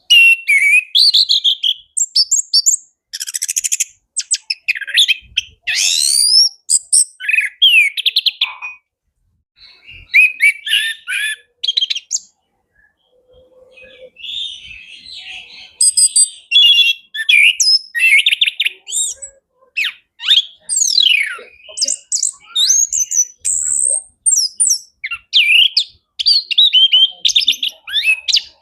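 Male orange-headed thrush singing a loud, varied song of rapid rising and falling whistled phrases packed with borrowed notes, breaking off briefly twice about a third of the way in before carrying on.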